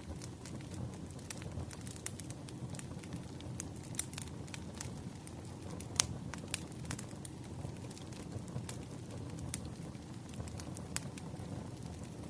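Campfire crackling: a steady low rumble of burning wood with scattered sharp pops, the loudest about six seconds in.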